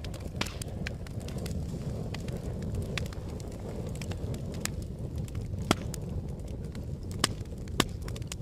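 Fire crackling: a steady low rumble of flames with scattered sharp snaps and pops, three louder pops in the second half.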